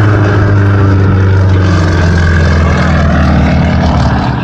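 Sukhoi Su-29's nine-cylinder radial engine and propeller at high power on a low pass, a loud, steady drone.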